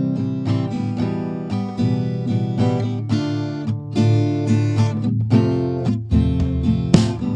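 Background music on acoustic guitar, chords played in a steady rhythm.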